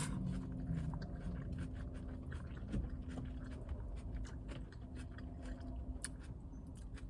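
A person chewing a mouthful of salad close to the microphone: many small, irregular crunches and mouth clicks.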